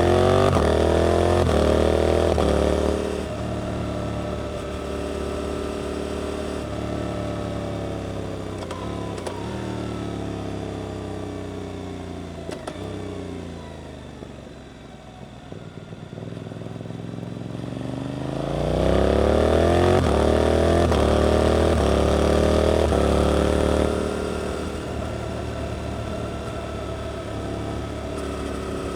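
Suzuki GSX-8S parallel-twin through an Arrow aftermarket exhaust, heard on the ride: it accelerates hard with rising revs, rolls off so the pitch falls for about ten seconds to a low, quiet point, then accelerates hard again for about five seconds before settling to a steadier, quieter cruise.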